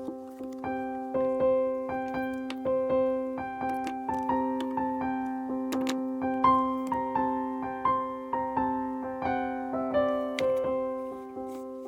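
Background music: a gentle piano melody played over steady held chords, with new notes struck about every half second.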